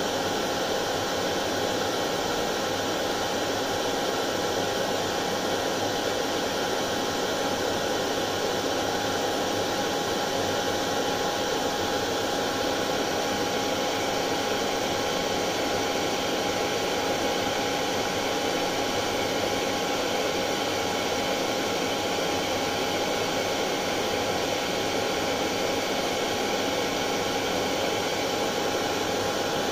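Hair dryer running continuously at a constant speed: a steady rushing whoosh of air with a fixed motor whine.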